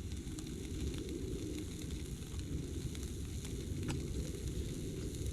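Peppered steaks sizzling steadily in a pan on the camp stove, with a single click about four seconds in.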